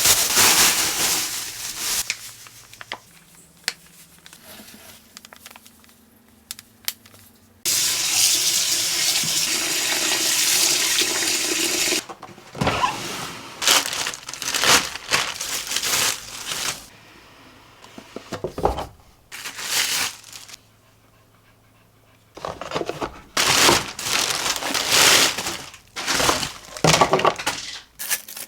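Water running steadily for about four seconds, stopping sharply near the middle, then irregular splashing and clattering in short bursts.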